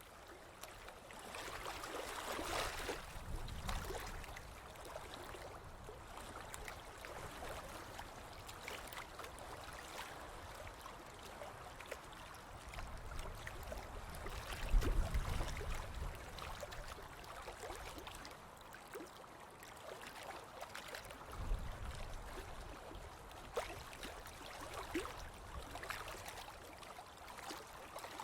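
Ocean surf washing on a beach: a steady hiss with fine fizzing crackle, swelling with a deeper surge three times, the loudest about halfway through.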